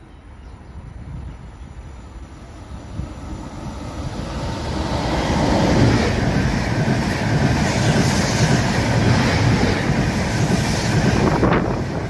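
Two coupled ETR 524 (Stadler FLIRT) electric multiple units approaching and running past along the platform: the rumble of wheels on rail grows steadily and stays loud about five seconds in as the cars go by, with a few sharp wheel clicks near the end.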